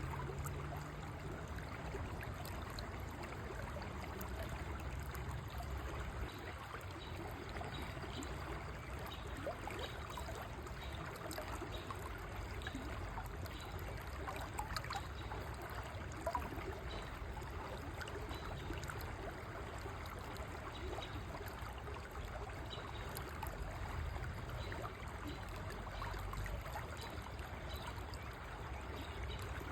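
River water flowing steadily in a continuous, even rush.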